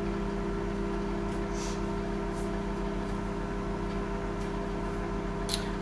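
Steady electrical hum from a running kitchen appliance, with a few faint crackles.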